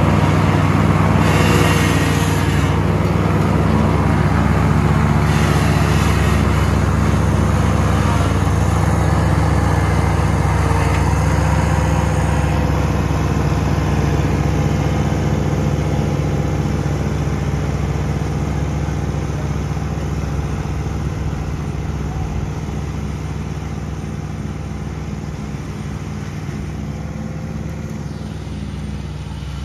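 John Deere Z320R zero-turn mower's engine running steadily, slowly growing quieter over the stretch.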